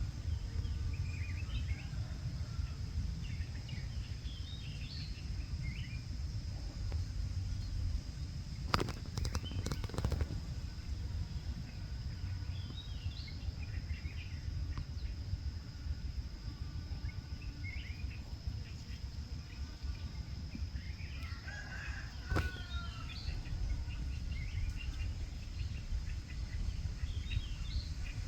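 Outdoor ambience: a steady low rumble with small birds chirping now and then and a faint steady high tone. There are a few sharp knocks about a third of the way in, and a louder falling call a little past the middle.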